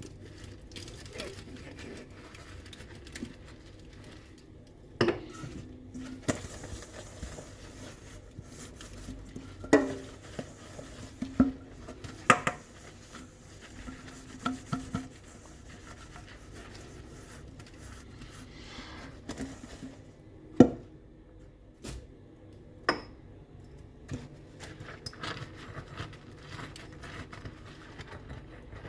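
Dishes and cutlery being handled during hand washing: scattered clinks and knocks of crockery and utensils, some ringing briefly, with softer rubbing and handling sounds between them.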